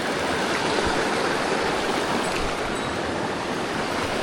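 Mountain stream water rushing and burbling steadily.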